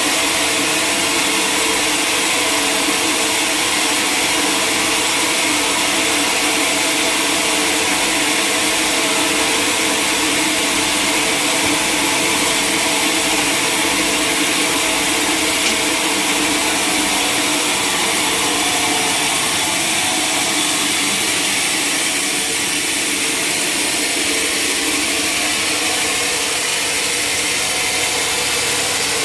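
A sawmill saw running steadily while it cuts through a large log, a loud, even machine noise with a hissing edge.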